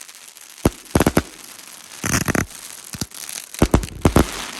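50-shot, 200-gram mine-to-break fireworks cake (Red Lantern 'Pierce Your Eyes') firing fast, with clusters of sharp bangs and crackling hiss between them. The loudest cluster comes near the end.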